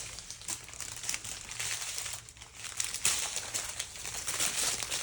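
Small plastic bags of diamond-painting drills being handled and sorted, crinkling irregularly throughout.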